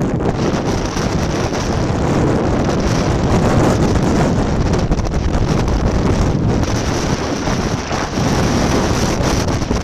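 Wind buffeting the microphone at riding speed on a snowboard slope: a loud, steady rushing roar.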